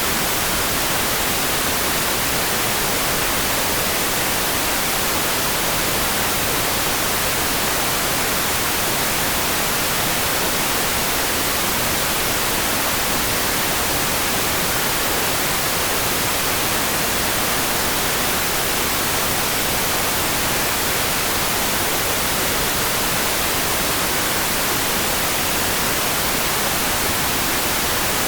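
Steady, even rain hiss for sleep, with no separate drops, thunder or changes, its energy strongest in the high range.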